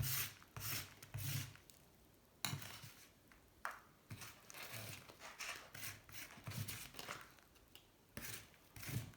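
Irregular scraping strokes of a tool digging caked sludge of oil, sand and corrosion out of an aluminium motorcycle crankcase, each stroke a short grating scrape with a dull knock, at roughly one to two a second.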